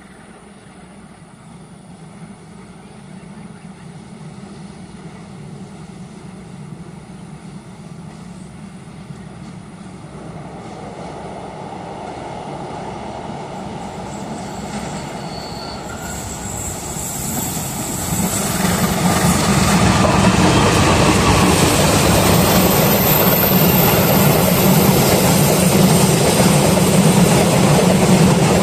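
A diesel-hauled passenger train approaching and coming past, its engine drone and rail noise growing steadily louder and reaching full strength about two-thirds of the way in as the train runs by close.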